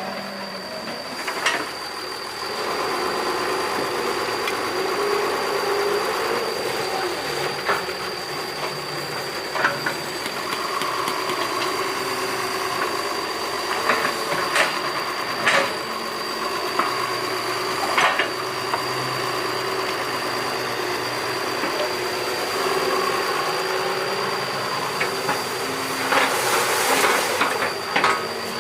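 Doosan 140 excavator's diesel engine running under working load, its pitch rising and falling as the machine digs. Sharp metallic clanks come every few seconds, over a thin steady high-pitched whine.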